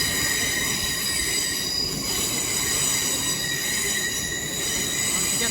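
GWR Class 800 train's wheel flanges squealing steadily as it pulls out, several high tones held at once over a low rumble.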